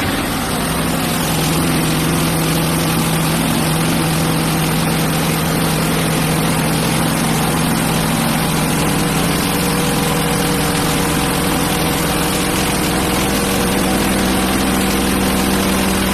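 Hudson Patriot band sawmill running steadily, its engine under load as the band blade saws a one-inch board off a pine log. The engine's low note shifts up slightly near the end.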